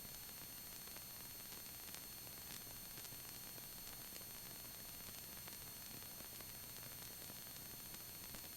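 Faint steady hiss of static on the helicopter's intercom and radio audio feed, with a few thin, constant high-pitched tones; no engine or rotor is heard.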